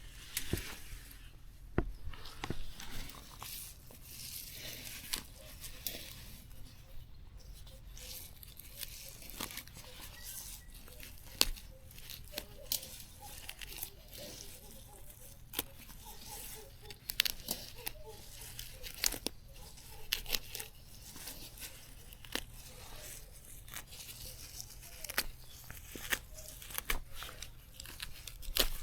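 Plant stems and leaves being torn and snapped by hand: irregular sharp snaps among rustling.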